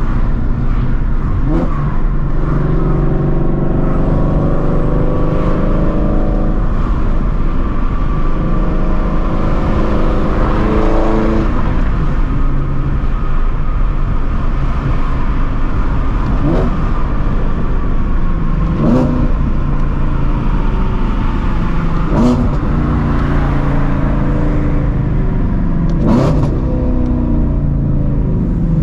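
Shelby GT350's 5.2-litre flat-plane-crank Voodoo V8, on long-tube headers and a straight-piped exhaust, running loud at light throttle while driving, its drone rising and falling. Several brief sharp revs cut through it over the stretch.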